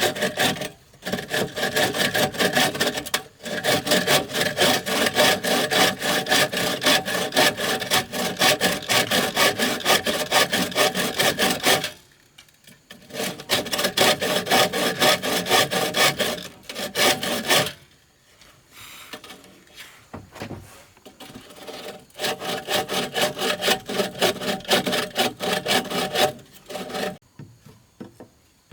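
A hand saw cutting through wood in quick, rasping back-and-forth strokes. It comes in several long runs broken by short pauses.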